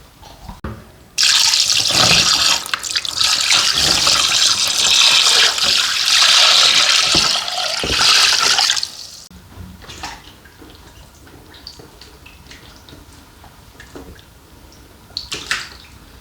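Brine being poured from a vessel over fish in a container: a loud, steady pour lasting about eight seconds that stops suddenly, followed by a few faint knocks.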